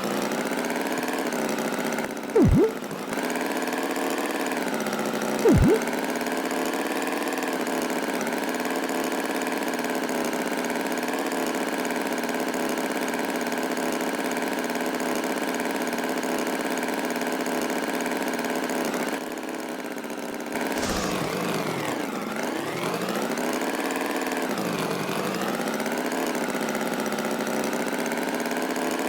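Tractor engine running steadily, its pitch dipping and rising now and then. Two short, loud rising tones cut in, about two and a half seconds in and again three seconds later.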